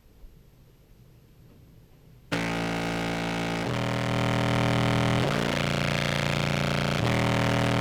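Contrabass clarinet played through fuzz and compressor pedals: after a near-silent pause, held low notes start about two seconds in, thick with distortion. Several sustained notes follow one another at an even, compressed level.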